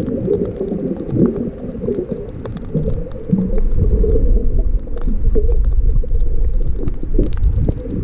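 Wind buffeting the microphone, a dense low rumble that grows heavier about halfway through.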